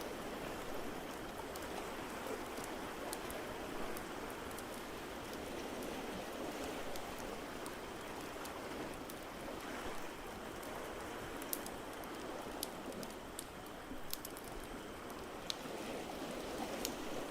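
Wood fire crackling, with sharp pops that come more often in the second half, over a steady wash of water noise.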